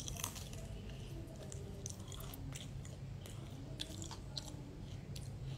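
A person chewing crispy batter-fried cabbage with the mouth close to the microphone, giving many small, irregular crunches.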